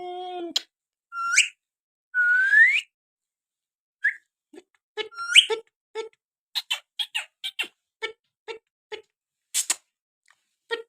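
Pet parrot giving a few sharp rising whistles, then a quick run of short clicking chirps, several a second, through the second half.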